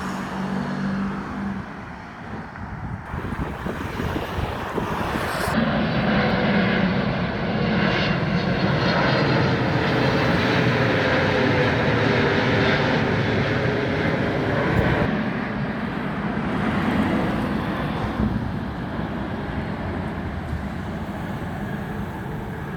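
Passenger jet airliner flying over on approach to Heathrow, its engine noise swelling to a peak over several seconds and then slowly fading.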